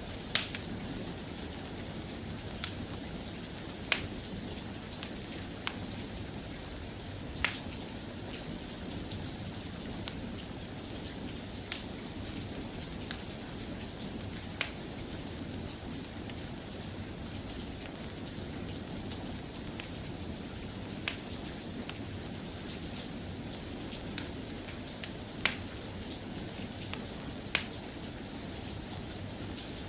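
Soft, steady rain, with a dozen or so sharp clicks scattered irregularly through it.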